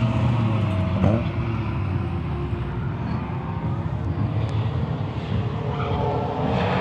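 Drift cars' engines running on the track, with a brief rev about a second in and revs rising and falling near the end.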